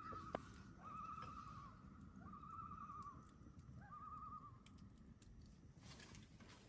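A bird calling four times, each call a short wavering trill lasting under a second, faint over a low background rumble.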